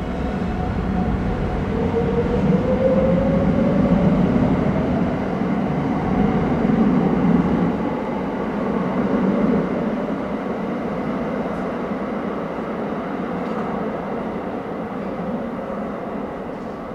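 JR West 681 series limited-express electric train running through the station and picking up speed. Its motors give a whine that rises in pitch over the first few seconds, over a heavy rumble of the cars that is loudest early on and then slowly fades.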